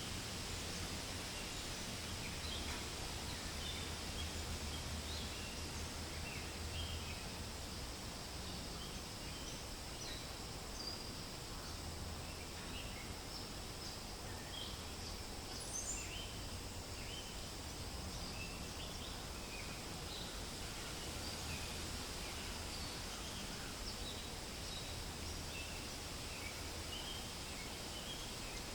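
Forest ambience: a steady wash of wind in the leaves with many small birds chirping throughout in short, high calls, and one brief rising call about halfway through.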